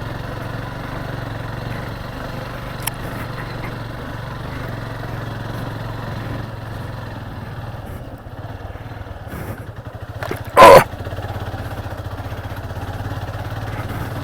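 Motorcycle engine running steadily, dipping in level about eight seconds in. A short, loud burst, the loudest sound here, about ten and a half seconds in.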